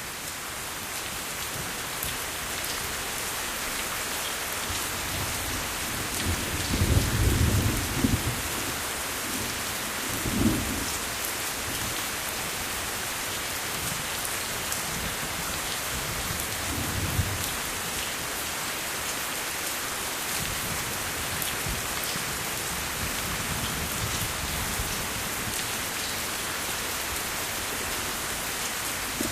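Steady, heavy rain with low rolls of thunder: the loudest rumble comes several seconds in, and shorter ones come a few seconds later.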